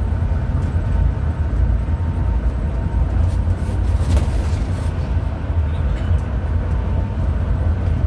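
Hino RM 280 bus on the move, a steady low rumble of engine and road noise.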